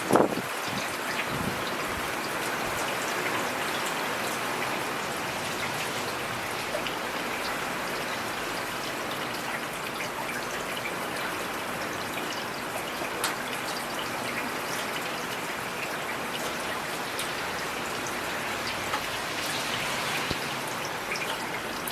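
Heavy rain falling steadily: a dense even hiss flecked with sharp individual drop ticks. A brief low thump sounds right at the start.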